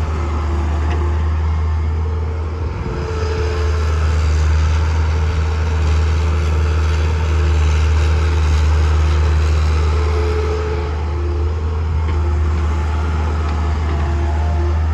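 Heavy diesel machinery engines running steadily with a deep, even drone.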